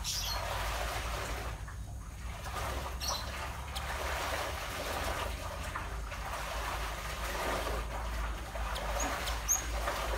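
Java sparrows chattering and twittering, with a few short, high chirps over a steady low hum.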